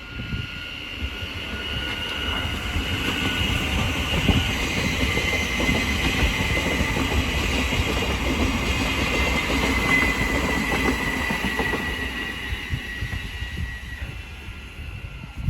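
Train running past on the main line: a steady rumble of wheels on rail with a high whine over it. It builds over the first few seconds, holds, and fades near the end as the whine drops slightly in pitch.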